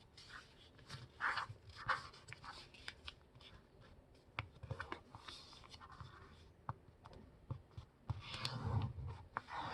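Sheet of paper being folded by hand: soft rustling and crinkling with small sharp clicks as the crease is pressed down, a longer louder rustle near the end.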